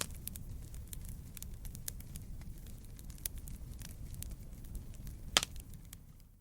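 Wood fire crackling in a fireplace: a steady low rumble of flames with scattered sharp pops, the loudest about five seconds in, dying away just before the end.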